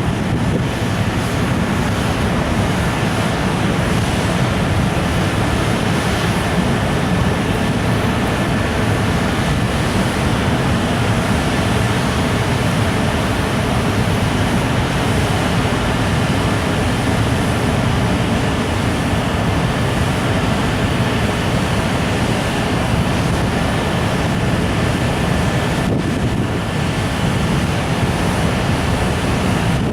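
Freight train of container wagons rolling past, a steady rumble of wheels on rail, with wind buffeting the microphone.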